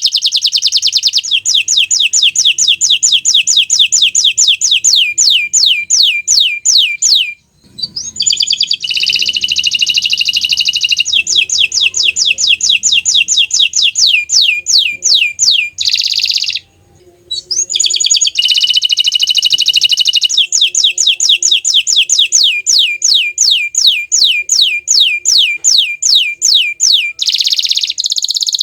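Bottle-green domestic canary singing: long loud phrases of fast repeated notes, each a quick downward sweep at about five a second, alternating with dense rolling trills. The song breaks off briefly twice.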